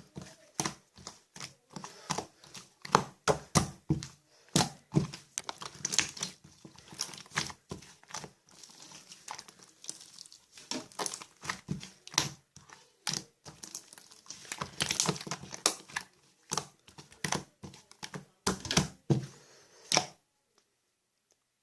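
Chewy chocolate slime being squeezed, stretched and pressed by hand, giving irregular sharp pops and crackles, several a second. It stops about twenty seconds in.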